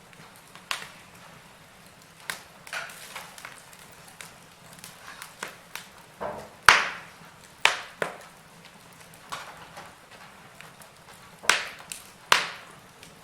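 Wood fire in a fireplace crackling, with irregular sharp pops over a faint steady hiss; the loudest pop comes just past halfway, and two more strong ones come near the end.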